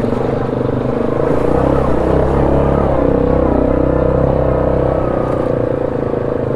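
ATV engine running steadily at low speed, with small rises and falls in pitch.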